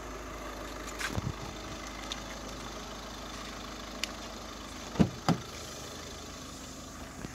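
Skoda Rapid's engine idling steadily with its fog lamps on. About five seconds in, two sharp thumps from the car's door as someone gets in.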